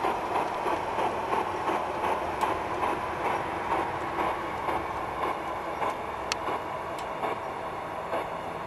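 Gauge 1 Accucraft K27 Mudhen model steam locomotive coasting to a halt with its regulator shut: a steady hiss and running noise slowly fading away, with a few sharp clicks.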